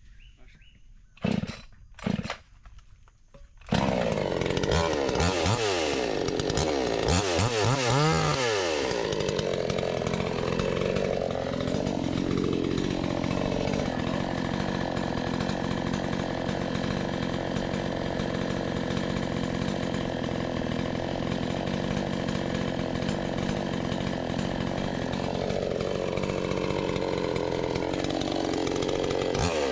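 Two sharp knocks, then a chainsaw starts up and runs continuously, its engine pitch rising and falling as it revs and cuts wood.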